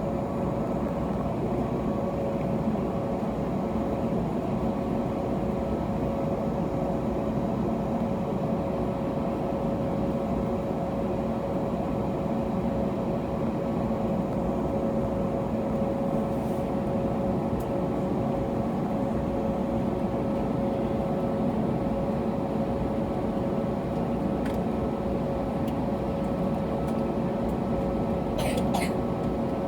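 Cabin noise of an Airbus A321neo with its Pratt & Whitney PW1100G geared turbofans at idle: a steady hum with a held mid-pitched tone. A few small clicks near the end.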